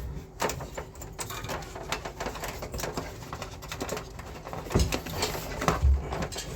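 Hand work on a split air conditioner's indoor unit: irregular clicks, taps and scraping of plastic and metal parts being handled, with two dull knocks near the end.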